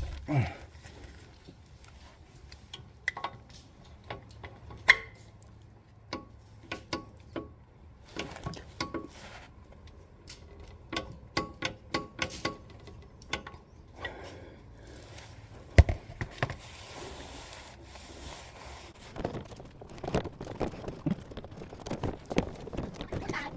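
Irregular clicks, clinks and knocks of hand tools and small metal parts being handled, with a sharp knock about 5 s in and another near 16 s.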